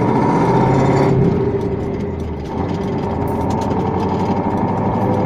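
KAMAZ truck's diesel engine running as the truck pulls away, with a steady engine note. The engine sound drops briefly about two seconds in, then comes back up.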